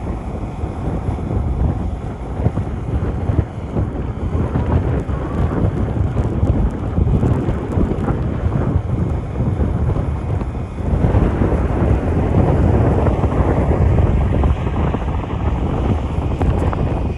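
Low, rumbling jet aircraft engine noise mixed with wind buffeting the microphone, growing louder about eleven seconds in.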